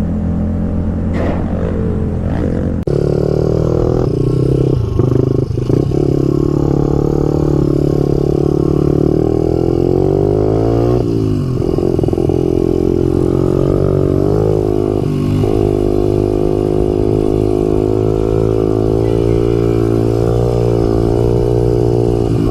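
Motorcycle engine running hard, its pitch rising and falling as it revs and changes gear, with an abrupt change about three seconds in.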